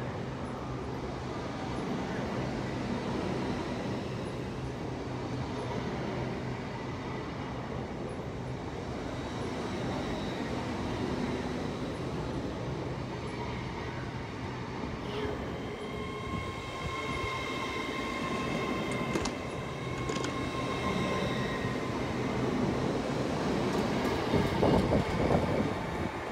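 A train moving through a railway station with a steady low rumble. About two-thirds of the way through, a high squeal of wheels sets in and lasts several seconds, and near the end come louder, uneven knocks.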